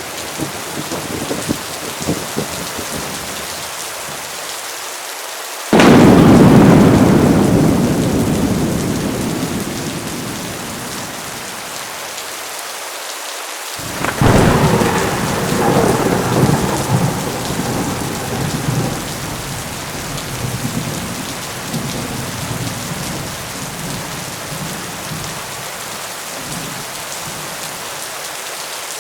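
Thunderstorm: heavy rain pouring steadily, with two claps of thunder. The first breaks suddenly about six seconds in and rolls away slowly over several seconds; the second comes about fourteen seconds in and rumbles on for several seconds more.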